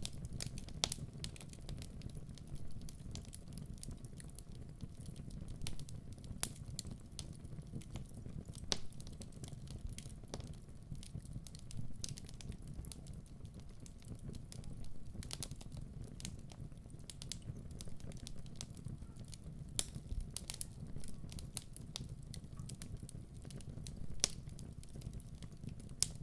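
Log fire crackling in a fireplace: irregular sharp pops and snaps over a steady low rumble of the flames.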